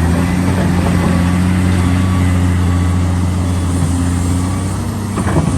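Heavy diesel engine of an excavator running steadily at a low, even pitch, with a short knock or clank near the end.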